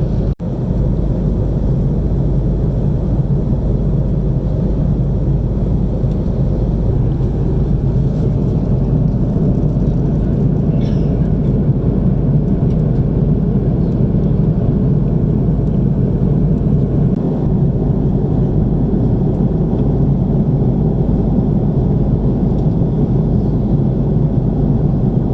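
Steady low drone inside an Airbus A330-300 cabin at cruise: engine and airflow noise with no distinct pitch, cutting out briefly right at the start.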